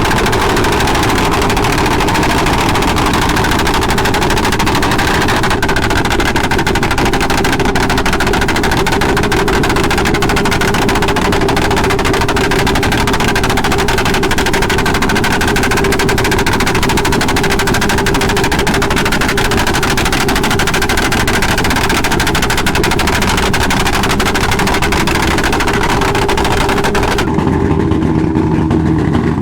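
Motorcycle engines running loud and steady, with a dense rattling exhaust note. About 27 seconds in the hiss drops away abruptly and the lower engine sound carries on.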